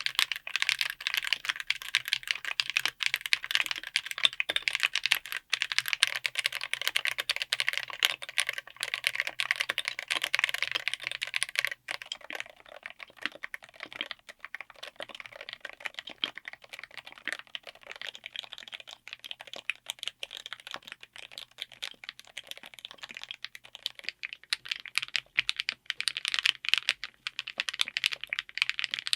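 Continuous typing on a full mechanical keyboard fitted with linear switches, a dense run of key clacks. About twelve seconds in the typing turns quieter and less dense.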